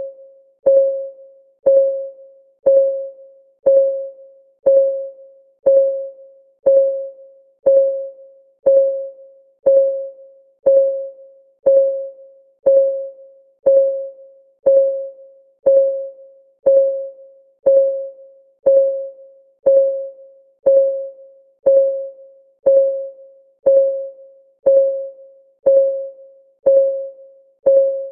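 Steady clock ticking from a countdown timer, one tick about every second, each a short click with a brief pitched ring that dies away at once.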